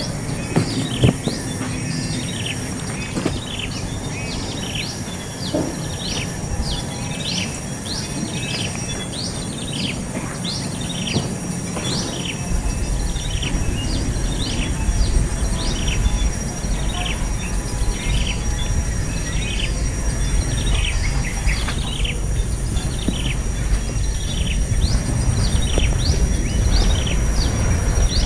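Small birds at a nest chirping over and over in short sweeping chirps, one or two a second, over a thin steady high tone. A low rumble comes in about halfway through.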